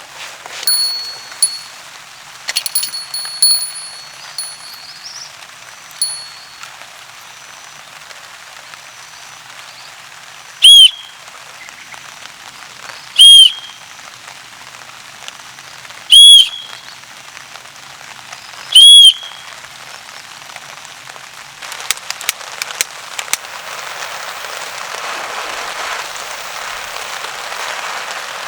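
Rain falling steadily on a camping tarp, growing heavier near the end. Faint chirps come early, and four very loud, short, arching whistle-like calls sound about two and a half seconds apart in the middle.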